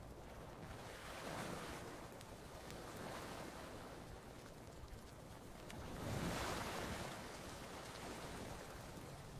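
Gentle ocean waves washing onto a beach, two swells rising and falling about a second and a half and six seconds in, over a steady low rumble of surf. Faint crackles of a campfire tick now and then.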